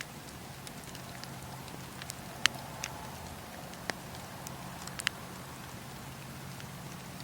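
Wood fire crackling in a fireplace: a steady soft hiss broken by several sharp pops, the loudest about two and a half seconds in.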